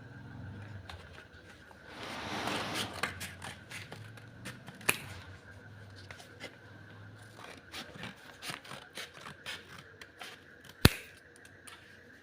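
Haircutting scissors being worked: blades scraping and many irregular small clicks, with one sharp click near the end.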